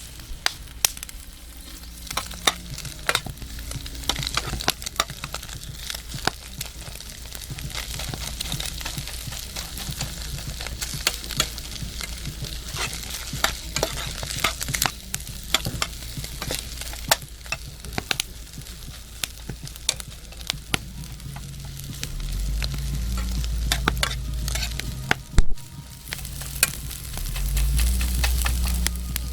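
Fried rice stir-frying in a pan over a campfire: a steady sizzle with many quick scrapes and taps of the spatula against the pan. A low rumble swells twice near the end.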